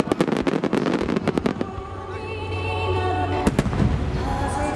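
Large aerial fireworks shells (10-go shakudama) bursting overhead. A rapid run of about a dozen bangs comes in the first second and a half, then two more bangs about three and a half seconds in.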